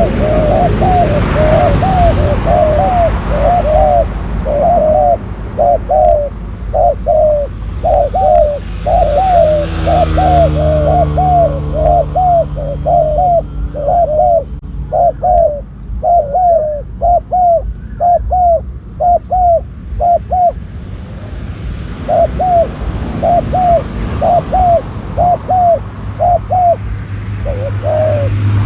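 Spotted doves cooing: a long run of short repeated coo notes, pausing briefly about two-thirds of the way through and then going on. Faint high chirps of small birds can be heard in the middle, over a low steady hum.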